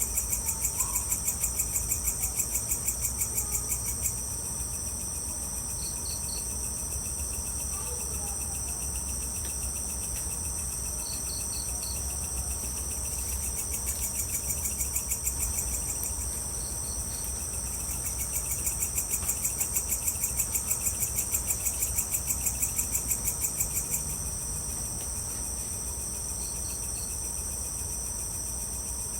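Evening chorus of crickets and other insects: a steady high shrilling, with a louder fast-pulsing trill at the start and again for about six seconds past the middle. Short chirps in threes stand out every few seconds.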